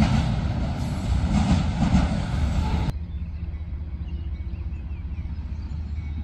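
Freight train rolling past with a loud, even rumble of wheels on rail. About three seconds in, the sound cuts off abruptly to a quieter, steady low engine hum.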